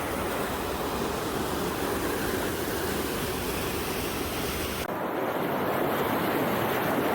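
Waterfall rushing: a steady, even noise of falling water. About five seconds in the sound changes abruptly, losing its deep rumble.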